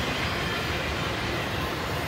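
Intermodal freight cars carrying highway trailers rolling past: a steady rumble of steel wheels on the rails.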